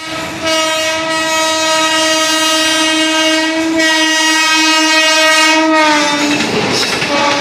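Locomotive horn of a passing express train, sounded in a long held blast with a brief break partway through. About six seconds in its pitch drops as the engine goes by, and the clatter of coaches on the rails takes over, with the horn sounding again lower near the end.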